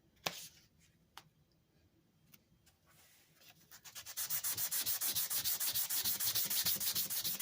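Sandpaper being worked back and forth by hand over the metal of an old cast anvil. After a couple of light knocks it starts a few seconds in as a fast, even run of scratchy strokes that grows louder and keeps going.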